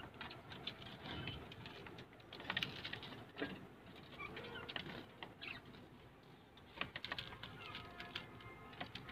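A bird making short chirps and warbling, squiggly notes, mixed with scattered light clicks.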